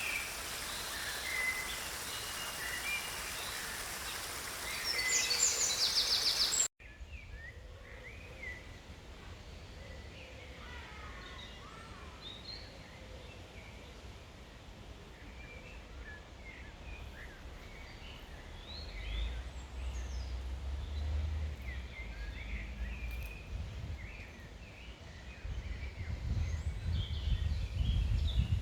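Several wild birds chirping and singing in short calls over a steady rushing background. About seven seconds in, the background noise cuts off abruptly and the chirping goes on over a quieter background, with low rumbling twice in the second half.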